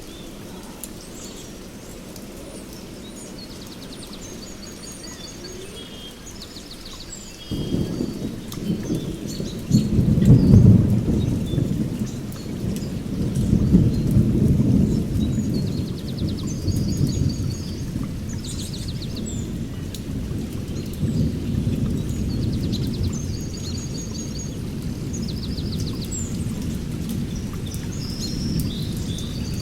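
Birds chirping and trilling over steady rain. About seven seconds in a roll of thunder starts suddenly and rumbles on, loudest around ten and fourteen seconds in.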